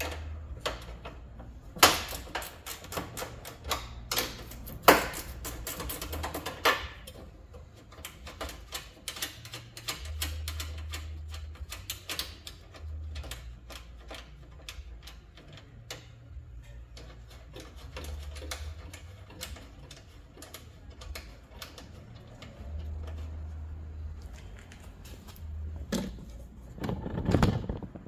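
Socket ratchet clicking in quick runs as the 10 mm nuts and bolt holding a headlight are loosened, busiest in the first several seconds, with scattered knocks of tool and parts in between.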